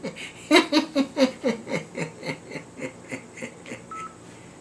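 A person laughing in a long run of short 'ha' pulses, about four a second, each dropping in pitch, growing fainter and fading out near the end.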